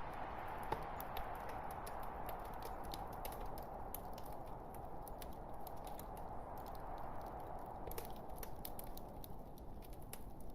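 Logs burning in a fireplace: irregular sharp crackles and pops over a steady rush of the flames.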